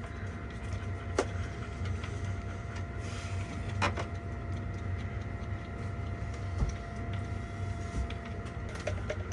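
Epoxy resin and hardener being stirred by hand in a mixing cup, with two sharp clicks about a second and about four seconds in. Under it runs a steady low machine hum with a faint whine that stops near the end.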